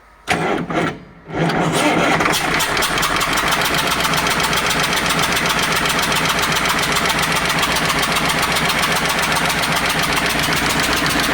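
KAMAZ V8 diesel engine cranked briefly by the starter, catching about a second and a half in and then running steadily with an even, fast pulse. It is run with an injector out during a test for combustion gases being forced into the cooling system, which the mechanics suspect comes from a cracked cylinder head or liner.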